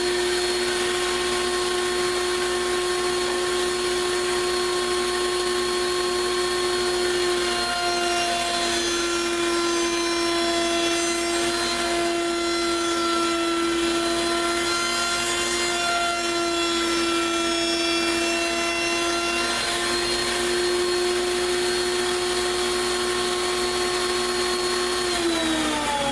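Wood router running at a steady high pitch, dipping slightly in pitch a couple of times as it cuts, then switched off and winding down near the end.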